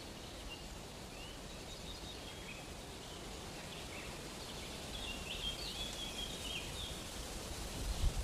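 Rainforest ambience: scattered short bird chirps over a steady background hiss. The calls come thickest about five to seven seconds in, and a low thump follows near the end.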